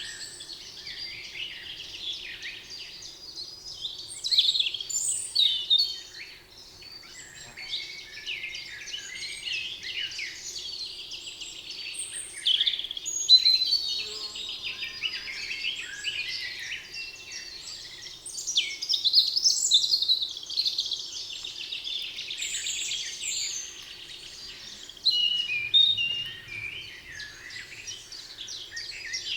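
A chorus of several songbirds singing at once, overlapping chirps, trills and whistles with no pause.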